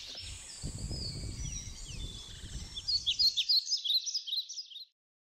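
Wild birds chirping and singing in a quick series of high calls, loudest near the end, over a low rumble that fades out after about three seconds; the sound cuts off suddenly just before the end.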